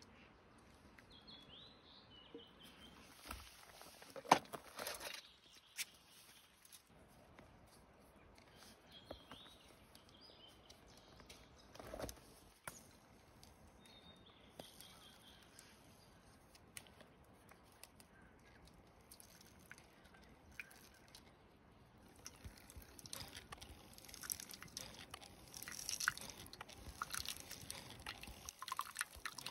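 Faint outdoor ambience with a small bird giving a few short chirps now and then. Single knocks come twice, and a run of quick crackling taps and drips fills the last several seconds.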